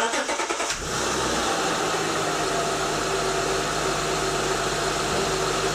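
2006 Acura TL's V6 engine cranking briefly and catching, then idling steadily with a strong hiss, on its first start after the alternator replacement.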